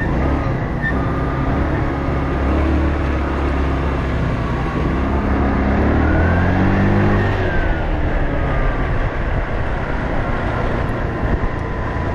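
Traffic or road noise with a motor vehicle engine running: its pitch rises over the first few seconds and falls again about seven seconds in, under a steady rushing noise.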